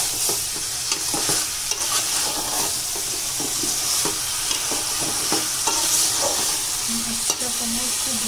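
Chicken and raw papaya chunks sizzling as they fry in an aluminium pot, with a metal spatula stirring them and scraping and knocking against the pot in irregular clicks.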